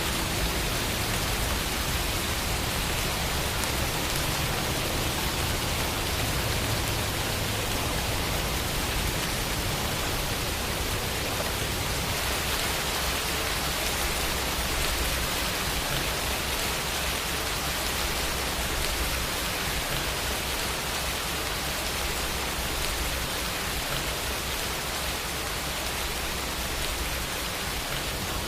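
Steady rain falling, a constant even hiss of drops with no thunder or other sounds.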